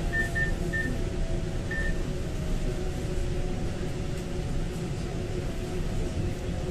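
Interior of a moving Taiwan Railway electric train: a steady running rumble with a low motor hum, and four short high beeps in the first two seconds.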